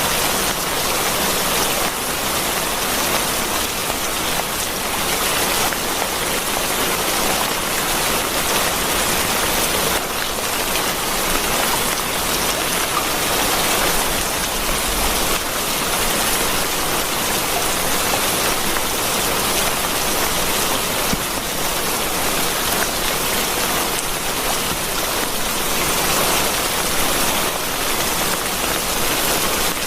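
Steady rain falling: an even, dense hiss of raindrops on a surface, with no thunder.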